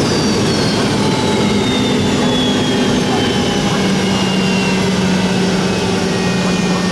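Boeing 717's Rolls-Royce BR715 turbofans running with a loud rush after landing, their high whine falling slowly in pitch as the engines spool down.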